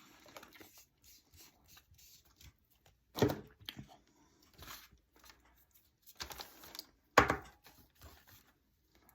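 Handling noise while painting a mini pumpkin: faint rustling and brushing, with two sharp taps, one about three seconds in and a louder one about seven seconds in.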